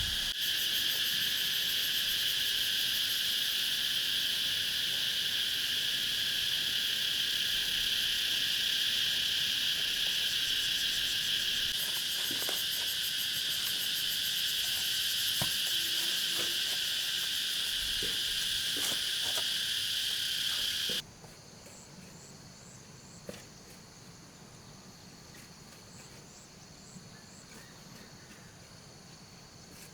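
Loud, steady chorus of insects that drops abruptly about two-thirds of the way through to a much fainter insect chorus with regular repeated chirps. A few faint knocks are scattered through the middle.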